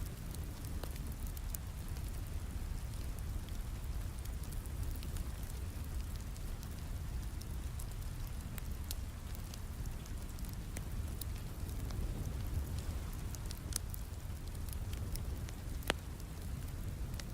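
Steady rain with a low rumble, mixed with a wood fire crackling in a fireplace: scattered sharp pops, one louder pop near the end.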